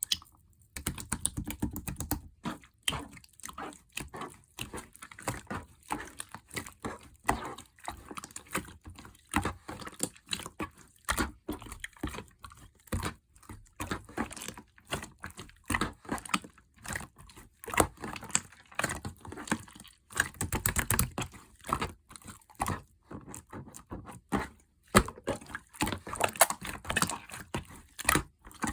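Slime being squished and mixed by hand: a dense, irregular stream of sticky clicks, pops and crackles.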